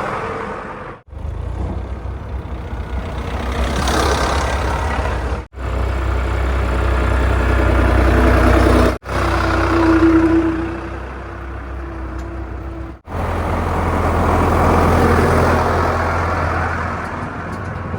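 Heavy diesel engines of earth-moving machinery running loudly, in several short clips cut one after another. A brief steady whine sounds about halfway through.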